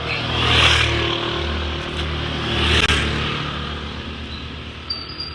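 Road traffic: two vehicles pass by, one about half a second in and another near three seconds in, each swelling and fading, over a steady low rumble.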